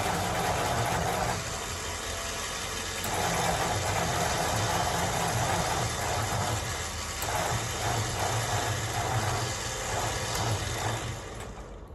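An engine idling unevenly, its note dipping and surging. It drops away sharply near the end.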